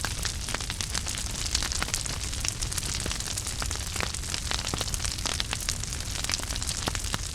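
Wood fire burning in a fireplace: a steady hiss and low rumble with frequent sharp crackles and pops at irregular intervals.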